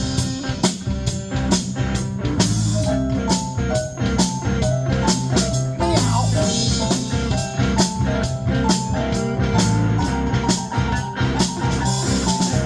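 A band playing the instrumental intro of a blues-rock song: a drum kit keeps a steady beat under guitar and a low bass line.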